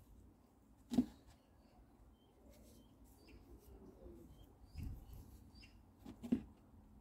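Faint bird chirps scattered in the background, broken by two sharp knocks, one about a second in and one near the end, with a duller thump between them, from hands and tools handling the work on the table.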